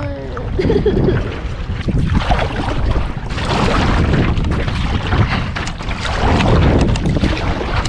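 Wind buffeting the microphone over the rush and splash of water around a canoe, a loud, steady rumble with irregular crackles.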